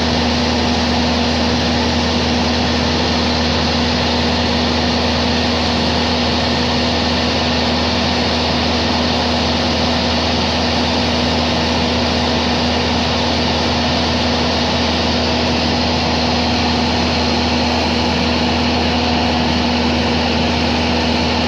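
Steady drone of the aircraft filming from overhead, its motors or propellers humming at an unchanging pitch with a strong steady tone over a broad rushing noise.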